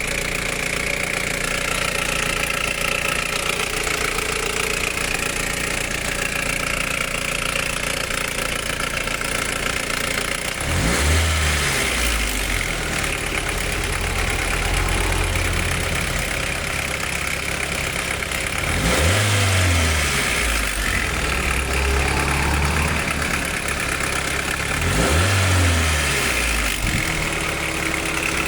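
1991 Nissan Primera P10's GA16DS 1.6-litre carburetted four-cylinder engine idling, with a noise the owner puts down to a bad timing chain. The throttle is blipped three times, each time revving up and falling back to idle.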